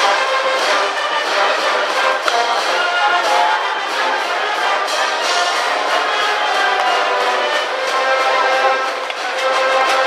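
School brass band playing a cheering tune in the stands, with held brass notes carrying the melody.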